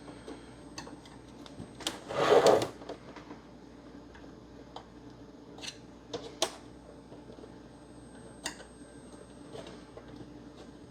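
Scattered clicks and taps of a pry tool against the Xbox One S's plastic shell and its clips, with one louder scrape of about half a second around two seconds in.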